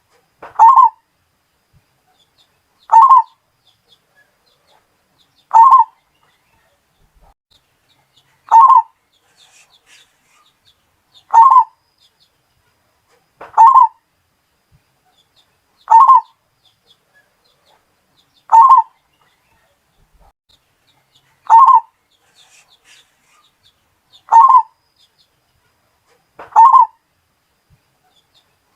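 Zebra dove (perkutut, Bali type) cooing: a short call repeated at an even pace, about once every two and a half to three seconds, eleven times.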